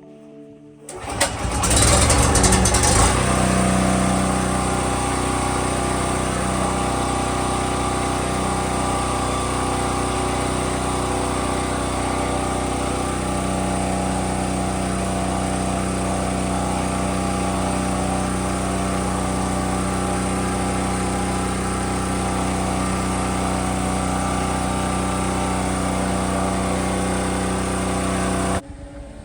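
Small engine, most likely a portable generator's, being started on propane: it catches about a second in with a loud rush, settles after a couple of seconds and runs steadily, then cuts off abruptly near the end.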